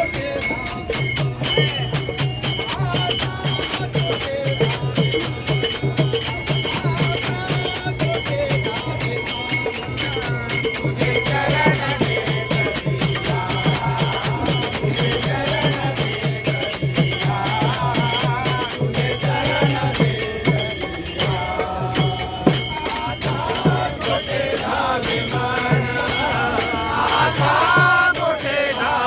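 Devotional bhajan played live: a fast, steady drum beat with jingling cymbals, and voices chanting the bhajan from about a third of the way in.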